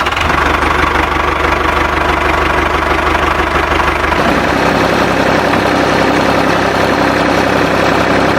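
An engine running steadily; its low hum shifts down about four seconds in.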